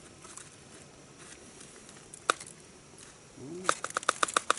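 A person eating frozen salted fish: a single click, then a short hum of approval and a quick run of about eight crisp clicks of chewing near the end.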